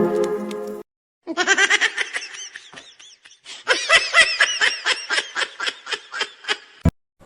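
Rapid high-pitched laughter, a long run of short laughs at about four to five a second, after a brief steady pitched tone at the start and ending in a sharp click.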